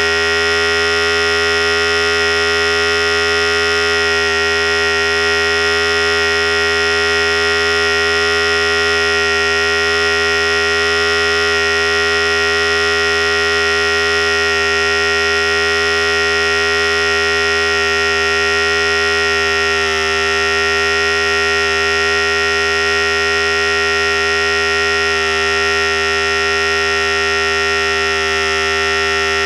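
Philips Series 5000 electric hair clipper running steadily with an even, constant buzz.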